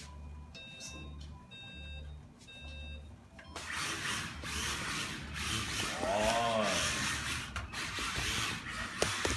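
Several short electronic beeps, evenly spaced, like a start countdown. About three and a half seconds in, Mini-Z RC drift cars' small electric motors start whining and their tyres hiss on the track, with one rising-and-falling motor whine a little after halfway.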